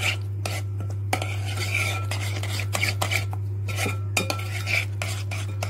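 A spoon stirring a thick yogurt and spice paste in a bowl, with irregular clinks and scrapes against the bowl, over a steady low hum.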